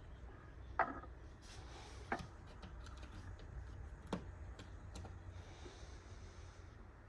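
A few short, sharp clicks or knocks, four of them distinct and spaced a second or two apart, over a low steady hum.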